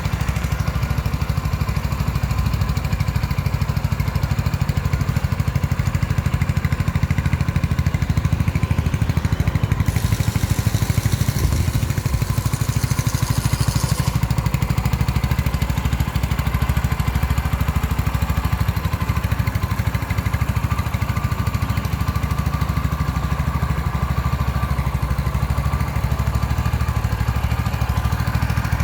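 Mutt Akita 250 motorcycle's single-cylinder four-stroke engine idling steadily with an even low pulse and no revving. A high hiss joins it for about four seconds partway through.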